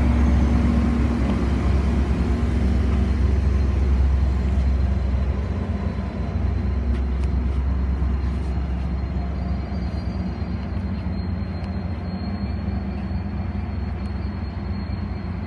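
Amtrak Pacific Surfliner train with an F59PHI diesel locomotive at its end passing close, with a heavy low engine rumble and wheel noise. The rumble eases about five seconds in as the train pulls away, and a faint steady high whine hangs on.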